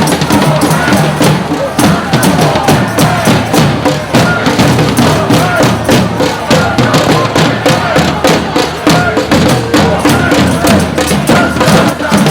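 Rhythmic percussion, a fast, even beat of about three to four strikes a second, with voices over it.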